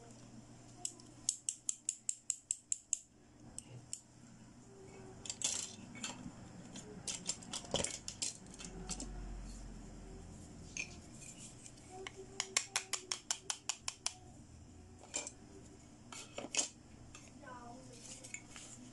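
Hard plastic toy pieces clicking and tapping as they are handled and set down, with two runs of quick, even clicks at about five a second.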